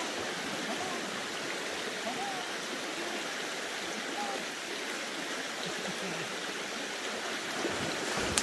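Creek water running, a steady even wash of flowing current.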